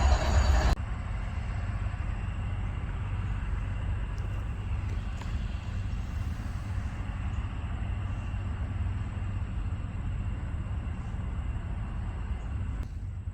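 A loud rumbling noise stops abruptly less than a second in, leaving a steady low rumble with a faint hiss.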